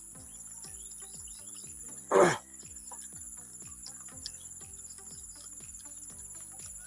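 Insects trilling steadily in the background, with one short, loud sound falling in pitch about two seconds in.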